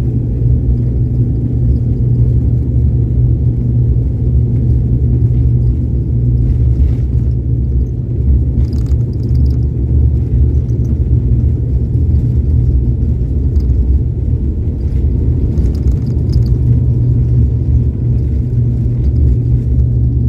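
Airliner engines and airframe heard from inside the passenger cabin: a loud, steady, low rumble with no change in pitch.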